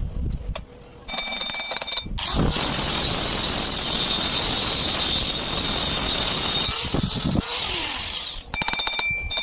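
Welding arc crackling and hissing steadily for about six seconds. Before it and after it come short stretches of rapid ticking with high ringing tones.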